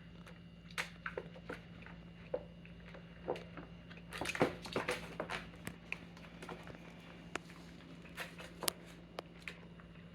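Newfypoo puppies moving about and chewing, making scattered clicks and scuffles with a busier burst about four seconds in.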